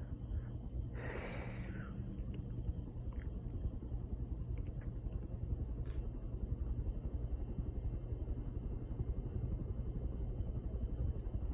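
60-inch Hunter Regalia ceiling fan running in reverse: a steady low rumble of the motor and moving air, with a brief rustle about a second in.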